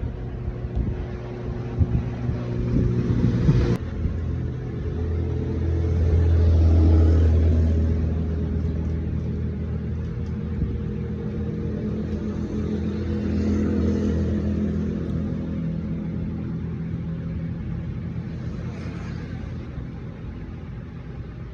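Motorcycle engine running, revved up twice, about six seconds in and again around thirteen seconds, and settling back to a steady idle in between. Irregular knocks sound over the engine in the first few seconds.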